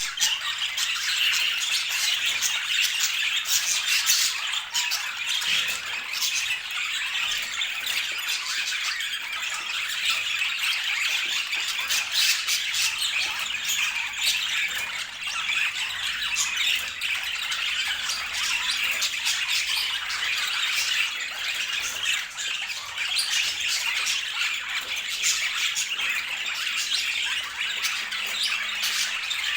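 Budgerigars chattering and chirping continuously in a dense, busy stream of short squawky calls.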